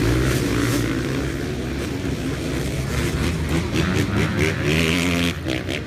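Several dirt bike engines revving together, their pitch climbing in repeated sweeps in the second half before easing off near the end.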